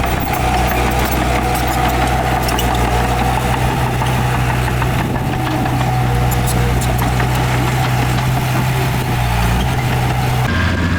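Heavy diesel engine of earthmoving machinery running steadily, with scattered light clicks and clanks over it. The engine sound changes abruptly near the end.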